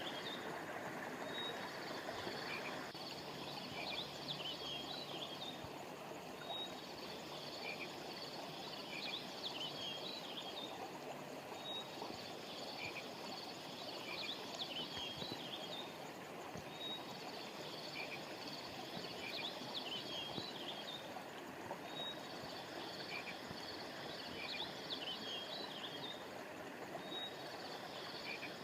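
Steady rush of flowing river water, with clusters of high chirping animal calls recurring about every five seconds.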